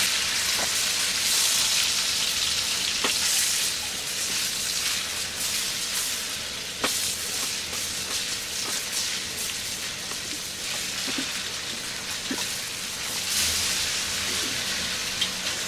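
Salted hilsa pieces, onion and garlic sizzling in hot oil with turmeric in a non-stick frying pan, being sautéed. A plastic slotted spoon stirs through it, with a few light clicks against the pan.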